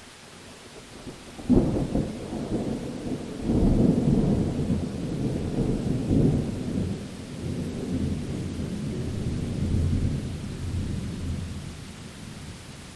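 Thunder during a rainstorm: a sudden clap about a second and a half in, then a second surge, and a rumble that rolls on and fades over several seconds, over a steady hiss of rain.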